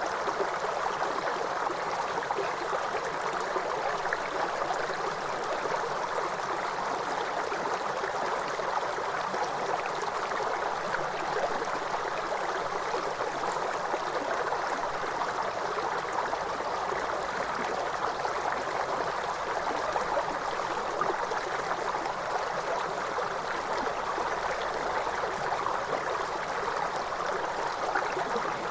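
A waterfall's steady rush of falling water, even and unbroken throughout.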